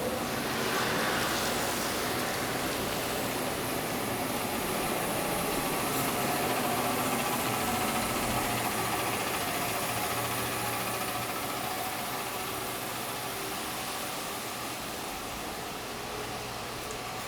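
A motor vehicle's engine running with a steady hum amid street noise, swelling slightly midway and easing off toward the end.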